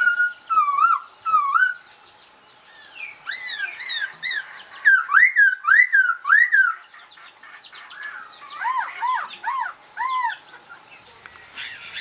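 Songbird singing: bursts of slurred whistled notes that rise and fall, with short pauses between the phrases. The loudest phrase comes around the middle, and the last phrase uses lower, quicker notes.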